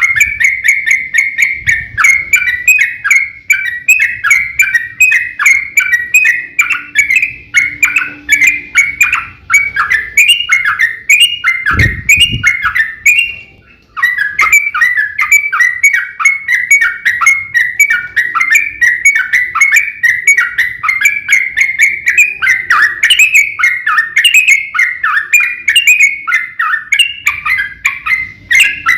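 Yellow-vented bulbul singing a long, continuous run of quick bubbly chattering phrases, with a brief break about halfway through. A short low thump sounds just before the break.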